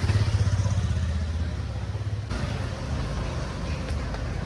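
A motor vehicle's engine passing close on a town street, loudest in the first two seconds and then dropping away into steady traffic noise.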